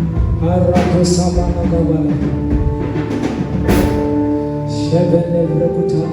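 Live church worship music: sustained keyboard-style chords with drums, and cymbal crashes about a second in and again near the middle.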